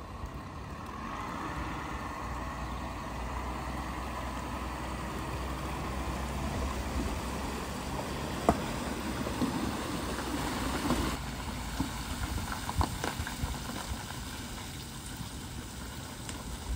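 Land Rover Defender's engine running under load as it tows a Land Rover Discovery on a rope through deep floodwater, with water washing and surging around the wheels. About eleven seconds in, the engine noise drops to a lighter water splashing and dripping, with a few sharp clicks.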